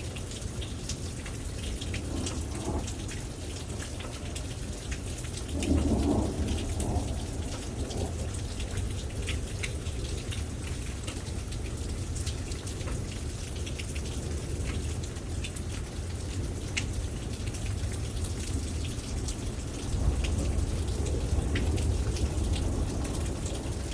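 Steady rain pattering, with a rumble of thunder about six seconds in and another, longer one near the end.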